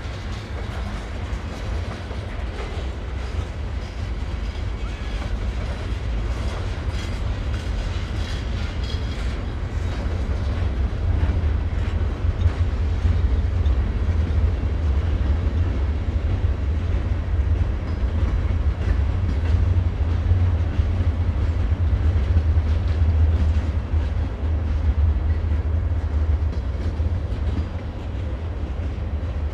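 Train rolling over a railroad bridge: a steady deep rumble of the cars with faint wheel clicks. It grows louder about a third of the way in and eases near the end.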